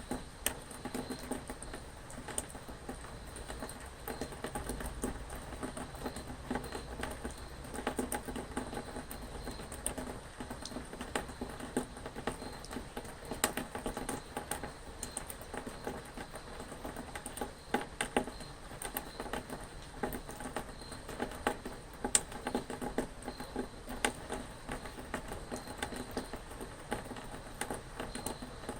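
Rain pattering steadily, with many sharp drops ticking at irregular moments over a soft, even hiss.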